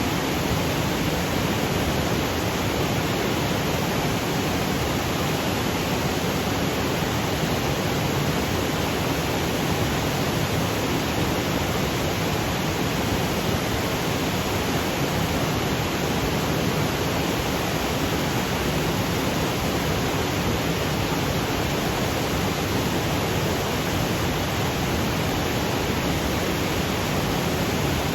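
Waterfall cascading over granite boulders: a steady, unbroken rush of falling water that spreads evenly from low to high pitches, with no change in level.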